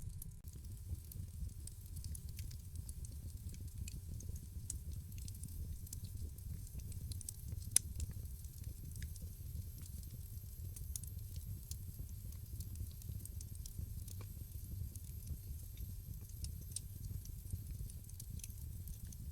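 Wood fire crackling in a fireplace: a steady low rumble of flames with scattered small pops and one sharper crack about eight seconds in.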